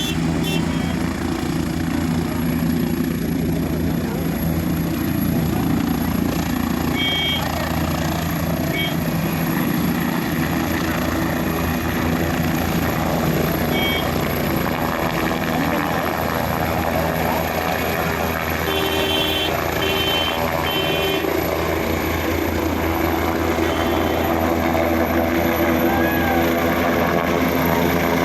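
Helicopter running steadily, a continuous rotor and engine sound that grows slightly louder toward the end, with a few brief high tones over it.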